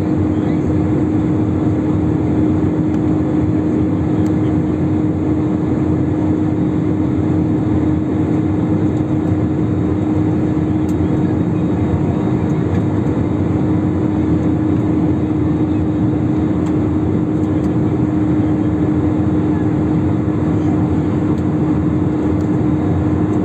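Steady in-flight cabin noise of an IndiGo airliner: the even rush of engines and airflow with a constant low hum running through it.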